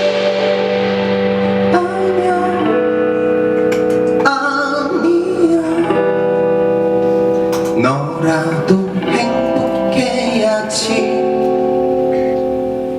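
Live band music: strummed electric guitar chords ringing out, with a voice singing held notes and the chords changing every second or two, easing off slightly near the end.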